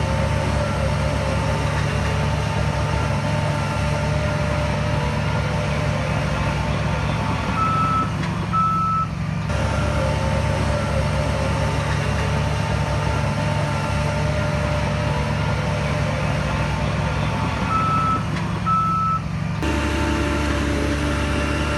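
Heavy diesel earthmoving machine running steadily while a reversing alarm beeps repeatedly.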